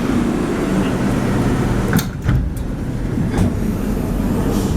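A Santiago Metro Line 1 rubber-tyred train running through the station with a steady rumble. A few sharp clacks come about halfway through, and another a little later.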